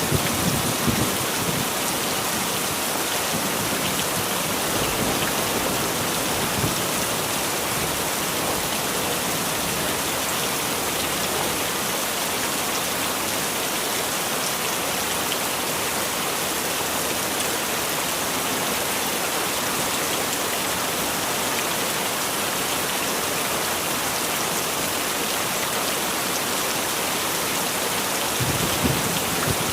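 Heavy rain falling steadily as an even hiss. A low rumble of thunder dies away in the first second, and another begins near the end.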